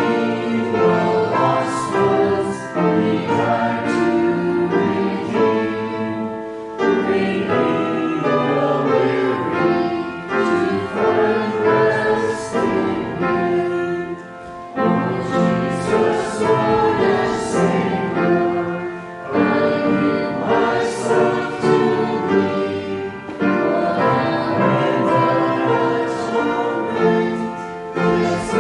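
Choir or congregation singing a hymn with instrumental accompaniment, likely piano.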